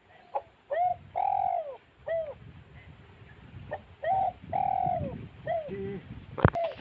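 A bird calling in a series of short, clear, arched cooing notes, about ten over several seconds. A single sharp crack sounds near the end.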